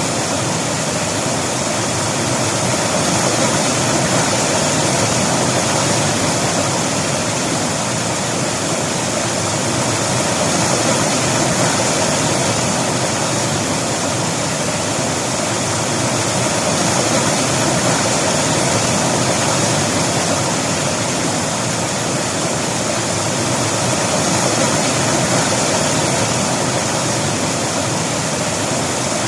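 River water rushing over rocks, a steady loud wash of noise with no let-up.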